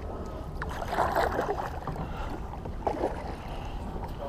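Kayak paddle dipping and splashing in river water, with two strokes standing out about two seconds apart.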